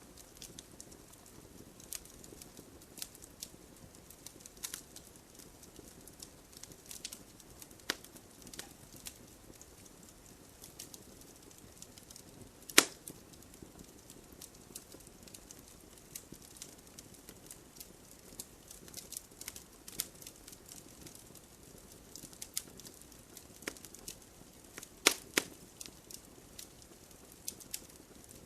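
Wood fire crackling: scattered sharp snaps and pops of burning firewood over a faint steady hiss of flame. There is one loud pop near the middle and two more toward the end.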